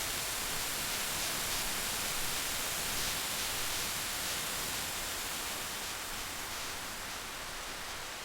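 Steady rain ambience, an even hiss of falling rain, slowly fading out towards the end.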